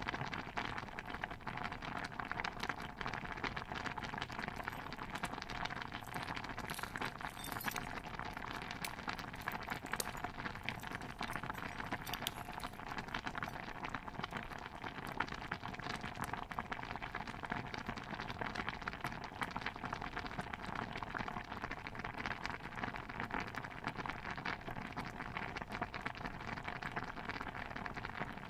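Pot of stew bubbling steadily, a dense, even bed of hiss with many small pops and crackles. A few light, high clinks stand out between about five and thirteen seconds in.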